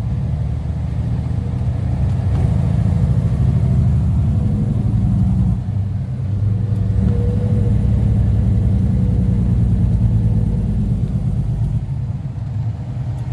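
Semi truck's diesel engine running under way, a steady low drone with road noise, heard from inside the cab.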